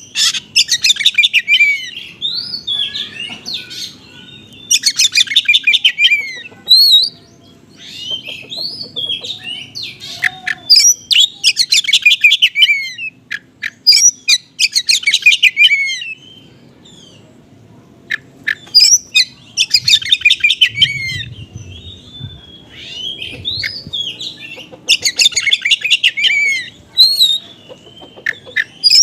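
Oriental magpie-robin (kacer) singing in the rapid, stuttering 'konslet' style, with small-bird mimicry: bursts of very fast high chattering notes every few seconds, with short sweeping whistles between them.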